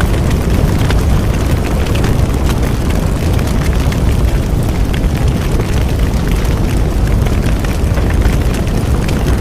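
Bonfire burning steadily: a deep, constant roar of flames with frequent small crackles and pops of burning wood.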